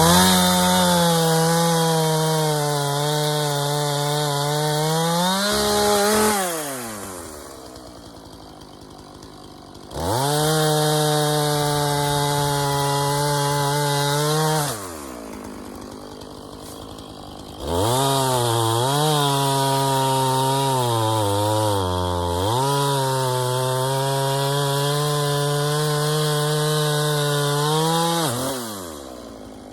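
Chainsaw revved to full throttle three times, cutting through fallen tree trunks; the engine note sags several times in the last and longest cut as the chain loads up in the wood, and drops back to a quieter idle between cuts.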